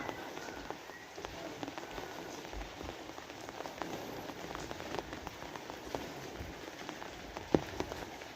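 Steady rain falling, with many individual drops ticking on a hard surface and one louder tap near the end.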